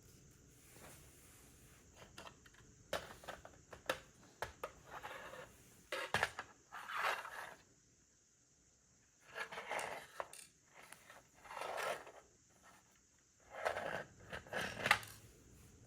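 Plastic LEGO bricks being handled and pressed together: irregular clicks and short rattling, scraping bursts in several clusters, with brief pauses between them.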